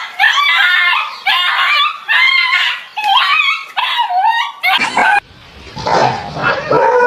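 A dog giving a run of about six high-pitched, bending yelping cries, followed by a lower, rougher sound from about five seconds in.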